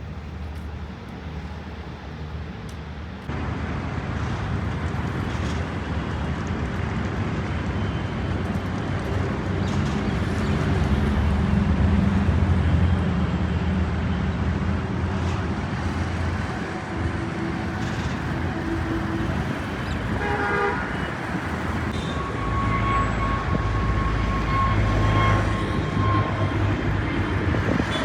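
Jet airliner engine noise, a steady roar that swells and fades, mixed with road traffic. A short car horn toot sounds about twenty seconds in.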